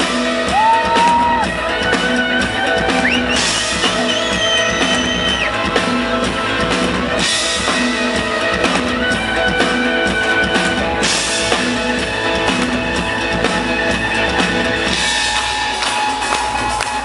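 Live rock band playing an instrumental passage. Drum kit with a cymbal crash about every four seconds, under long held lead notes, two of which slide up in pitch early on.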